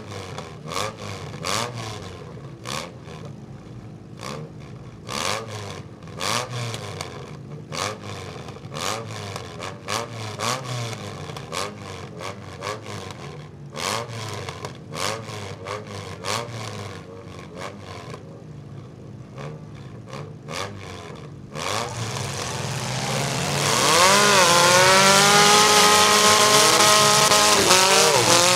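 Several compact demolition derby cars' engines idling, with irregular sharp cracks or knocks. About 22 seconds in the engines rev up hard and the sound gets much louder, the pitch rising and falling as the cars drive into each other.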